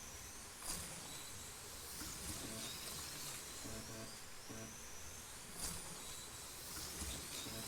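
1/32 scale NSR Mosler slot cars racing, their small electric motors whining and rising in pitch as the cars accelerate, the pattern repeating about once a lap. A sharp tick sounds less than a second in and again near the end.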